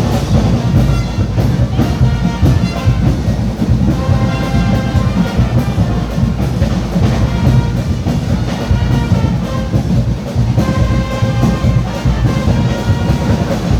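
Carnival brass band with drums playing loud music: horns holding and changing notes over a dense, steady drum beat.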